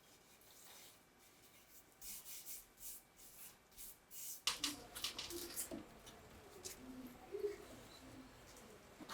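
Faint rubbing and scattered light clicks of hand work, mostly quiet at first and busier from about four and a half seconds in.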